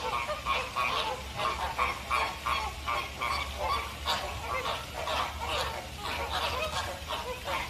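A flock of waterfowl calling, with many short honking calls overlapping at several a second.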